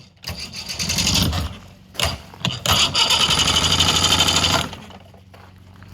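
Boat engine being started: uneven bursts as it turns over and fires, then it catches and runs loud for about two seconds before settling to a quieter steady idle near the end.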